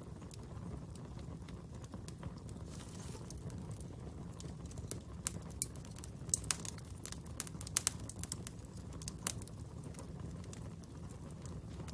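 Wood fire crackling over a steady low rumble, with a run of sharp, louder pops from about five to nine seconds in.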